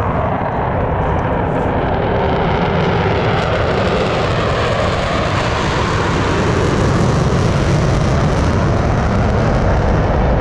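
Jet noise from Blue Angels F/A-18 Super Hornets flying past: a loud, steady rush that swells in just before and keeps building slightly.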